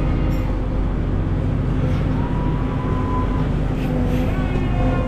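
Prawn trawler's diesel engine running with a steady low drone, a faint thin whine joining in for about a second near the middle.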